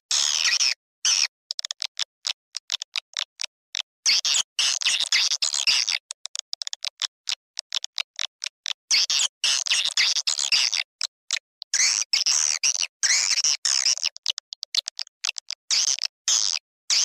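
Recorded swiftlet call track ('suara panggil') played to lure swiftlets into a swiftlet house: dense high twittering chirps, chopped into many short bursts with sudden gaps of silence.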